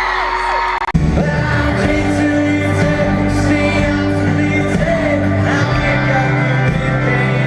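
Live pop-rock concert heard loud from the audience: a band playing, with singing and crowd screams. About a second in, after a brief dropout, the full band with heavy bass comes in.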